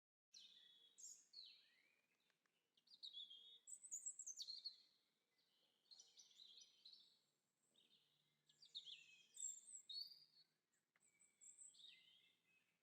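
Songbirds singing: faint, quick high chirps and twittering trills in short phrases with brief pauses, starting just after a split-second gap.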